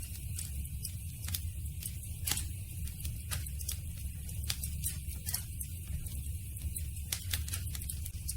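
Campfire burning: irregular sharp crackles and pops of burning wood, several a second, over a steady low rumble.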